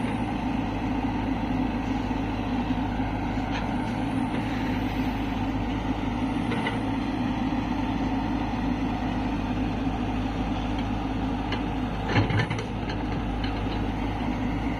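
Diesel engines of an excavator and tractors running steadily with a low hum. A few short knocks sound through it, the loudest a brief cluster about twelve seconds in.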